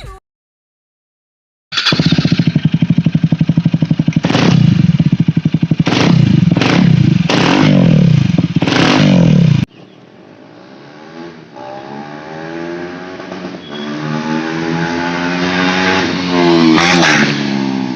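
KTM Duke 250 single-cylinder engine through a loud exhaust, idling with a fast, choppy pulse and blipped hard about six times. After a cut the bike accelerates, its pitch climbing and stepping through gear changes as it grows louder.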